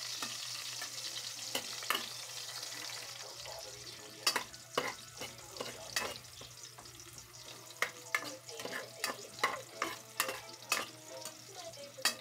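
Chopped red onion sizzling in hot oil in a pot while a metal spoon stirs it. The sizzle is strongest at first and dies down after about three seconds, after which the spoon's sharp clicks and scrapes against the pot stand out.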